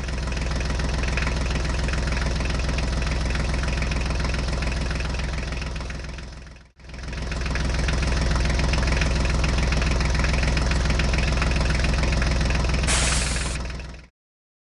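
An engine running steadily, heard in two stretches that each fade in and out, with a brief hiss near the end.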